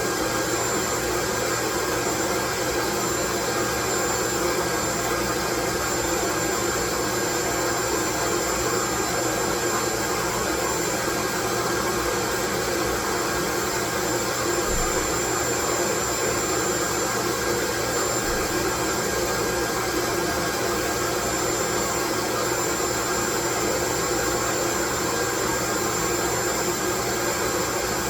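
Loud, steady white noise: an even hiss that never changes, with faint steady hums and a thin high tone running under it.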